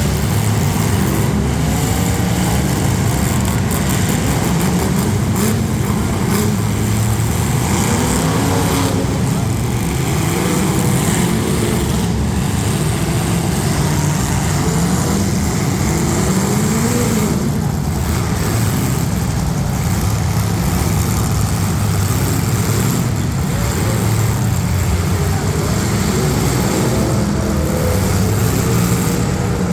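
Several demolition derby street stock cars' engines running and revving at once, loud and continuous, their pitches overlapping as they rise and fall.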